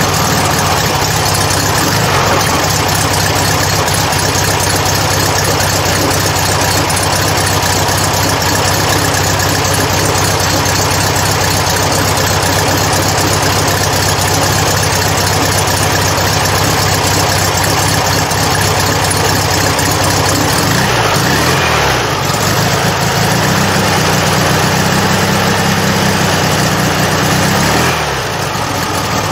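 Freshly rebuilt VW Beetle 1300 air-cooled flat-four engine running steadily at idle. About two-thirds of the way in it is revved up and held at a higher speed for several seconds, then drops back near the end.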